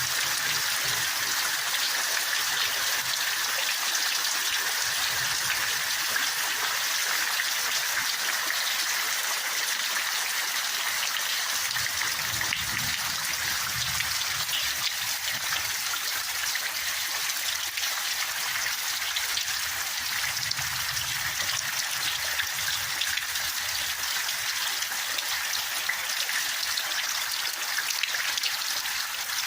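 Heavy downpour: steady rain noise with water running and trickling.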